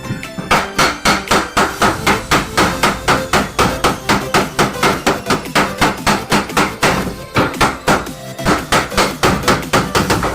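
Hammer blows on a car body panel, rapid and evenly spaced at about three to four strikes a second, with two short breaks in the second half: panel beating out a dent.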